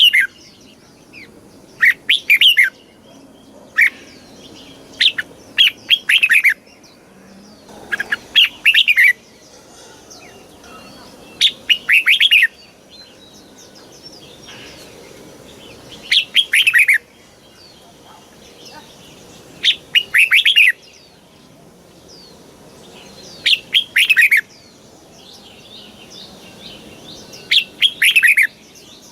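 Red-whiskered bulbul singing: short, bright phrases of quick descending notes, each about a second long, repeated every three to four seconds.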